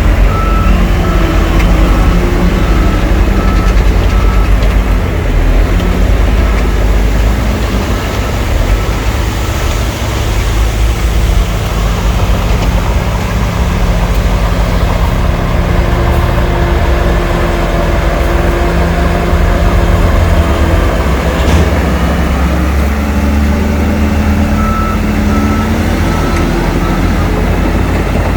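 Heavy diesel engines of earthmoving machines, a bulldozer and dump trucks, running under load, their pitch rising and falling as they work. A reversing alarm beeps steadily at the start and again near the end.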